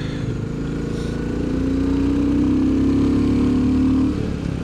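Royal Enfield Bullet 350's single-cylinder engine running under way, pulling harder and rising slightly in pitch and loudness over a couple of seconds, then dropping back near the end.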